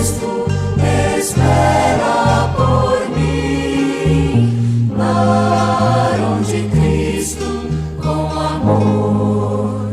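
Gospel choir music: a vocal group singing over instrumental accompaniment with a moving bass line.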